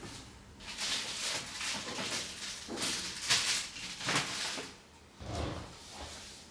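A series of short scraping, rustling strokes, about six over a few seconds, from hand tools and parts being worked on a phone.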